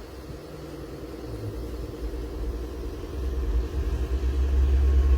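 Vehicle engine running steadily, with a low rumble that grows louder toward the end.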